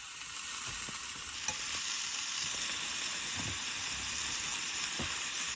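Food sizzling in a hot frying pan, a steady hiss that grows louder about a second and a half in, with a few faint knocks, then cuts off suddenly.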